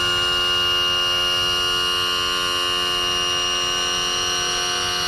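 A sustained electronic chord: many steady pitches held together without wavering, loud and unchanging throughout.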